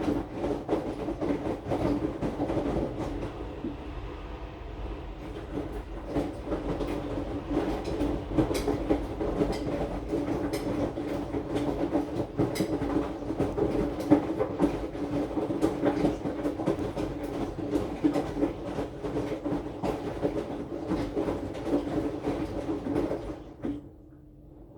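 AQUA AQW-DX12M front-loading drum washing machine running, a steady motor and drum hum with irregular knocks and thuds as the load turns in the drum, picked up through the machine's top panel. The sound drops away near the end as the drum pauses.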